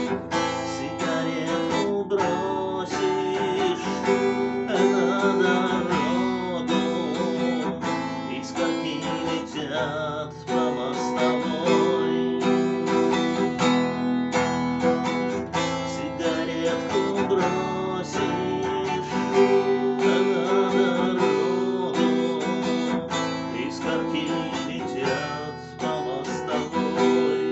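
Acoustic guitar music, plucked and strummed, playing steadily.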